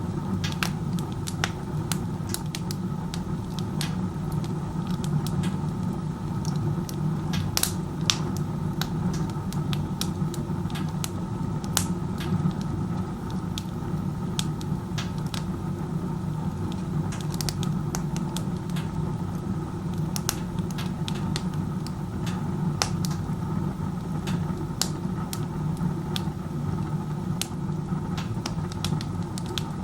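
Wood-burning stove run with its door open like a fireplace: the chimney's strong draft pulling air through the fire makes a steady low rushing sound, with scattered sharp crackles and pops from the burning firewood. The loud draw is the sign of poor combustion efficiency with the door open.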